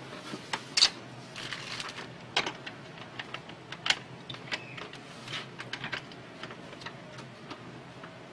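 Irregular mechanical clicks and clacks from a Canon G2000 inkjet printer, at an uneven pace, with two sharper clacks about a second in and near four seconds in.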